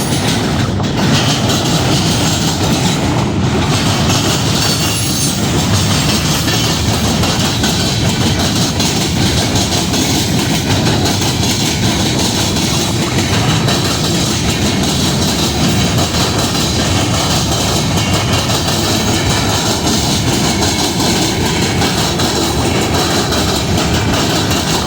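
Train cars rolling past: a steady, loud rumble of steel wheels on the rails with a clickety-clack over the rail joints.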